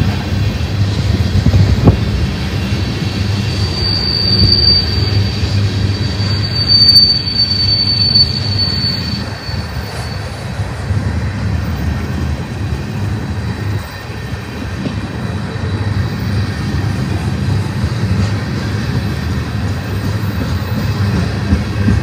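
Tank cars of a freight oil train rolling past, with a steady low rumble of steel wheels on rail. A high-pitched wheel squeal sounds from about four to nine seconds in.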